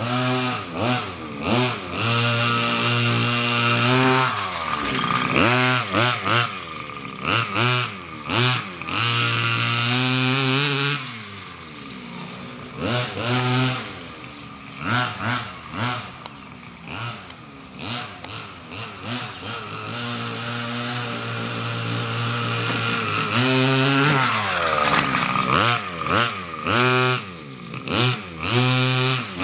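27cc two-stroke engine of an XTM Grizzly RC monster truck, revving up and down over and over, with several long stretches held at high revs. The high revs come when a wheel lifts off the ground and the differential sends the power to the free-spinning wheel.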